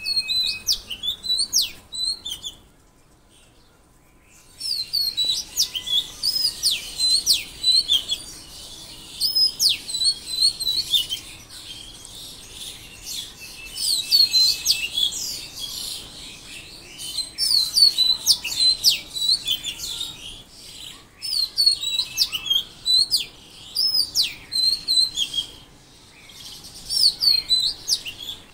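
Songbirds chirping and singing in quick, repeated high phrases, overlapping as a busy chorus, with a short lull about three seconds in.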